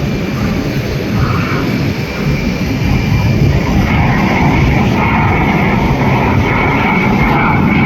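Aermacchi MB-339 jet trainers flying overhead, their turbojet noise with a high steady whine. The noise grows louder about three seconds in.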